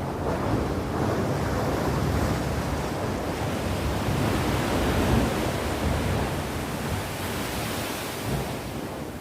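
Sea waves breaking and washing up the shore: a surge of surf that swells in the first second, holds through the middle and slowly eases off near the end, with wind rumbling on the microphone.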